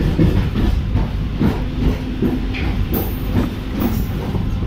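DEMU passenger train running along the track, heard from its open doorway: a steady rumble of the wheels on the rails, with scattered short knocks.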